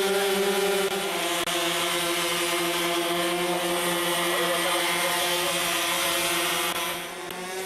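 A radio-controlled model aircraft engine running at a steady speed, giving a steady pitched drone. It dips slightly in pitch about a second in and gets quieter near the end.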